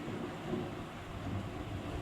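Thunder rumbling low and rolling during a storm, over a steady hiss.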